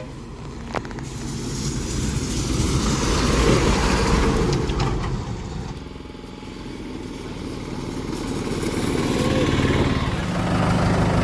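Motor vehicles passing on a road, engine and tyre noise swelling to a peak three to four seconds in, easing off, then swelling again toward the end as a second vehicle comes by.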